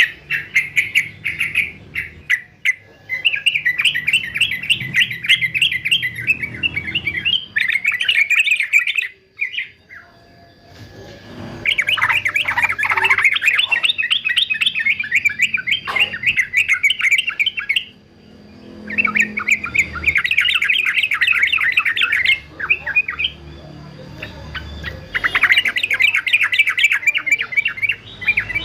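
Male yellow-vented bulbul singing: rapid runs of short, high notes in bursts of a few seconds each, broken by short pauses.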